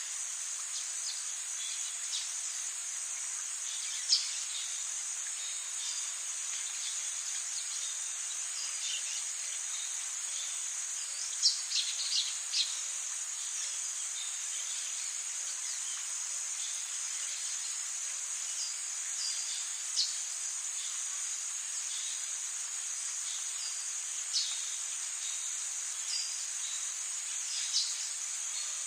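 Rainforest ambience: a steady high-pitched drone of insects, with short sharp chirps and calls dropping in here and there, several in quick succession about eleven to thirteen seconds in.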